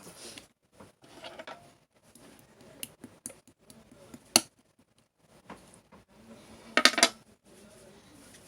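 Scattered clinks and clatter of kitchen utensils and dishes being handled. A single sharp clink comes about four seconds in, and a quick run of loud clinks comes near seven seconds.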